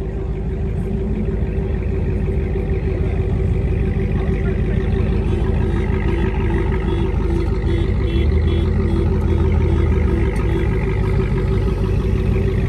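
Car engine and road noise while driving: a steady low rumble with a constant drone, swelling slightly in the first couple of seconds and then holding even.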